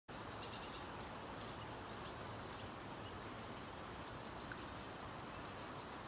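Small birds calling: thin, high-pitched chirps scattered through, with a quick run of repeated high notes from about four to five seconds in, over faint outdoor background hiss.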